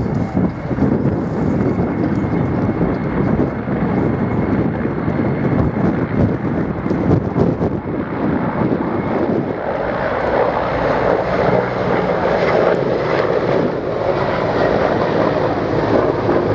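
Czech Mil Mi-171 and Mi-35 helicopters flying: turboshaft engines and rotors running continuously, with a thin steady high whine over the rotor noise, growing fuller from about ten seconds in.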